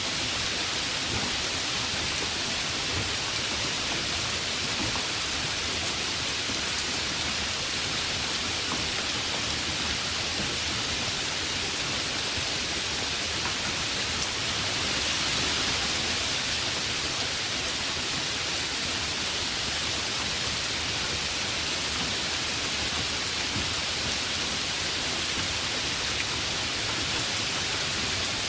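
Heavy rain falling steadily, a dense even hiss of drops hitting surfaces, swelling slightly about halfway through.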